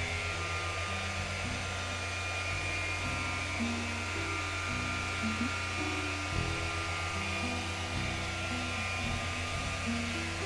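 Dual-action polisher running with a steady whine as it buffs car paint, under background music with low, changing notes.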